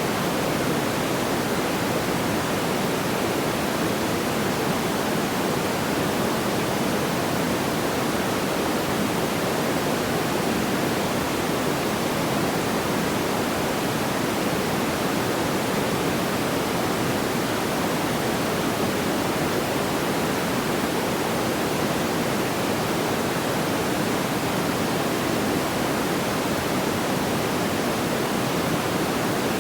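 Steady, even rushing noise, fullest in the low-middle range, with no distinct pops or crackles standing out.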